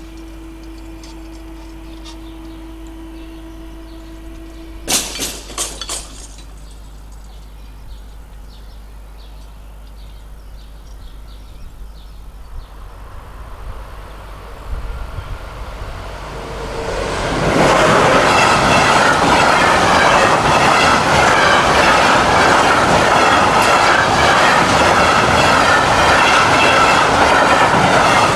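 A level-crossing warning signal sounds a steady tone while the barrier booms lower, then stops with a few clanks about five seconds in as the booms come down. From about twelve seconds in, a freight train of tank wagons approaches and passes close by, loud and steady from about seventeen seconds, its wheels clattering over the rail joints.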